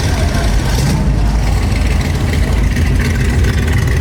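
Car engines running, a steady low rumble with no sharp revs.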